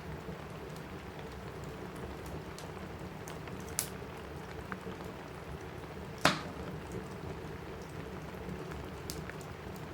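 Steady rain on a cabin roof, with a fireplace crackling: a few scattered pops, the loudest a sharp crack about six seconds in.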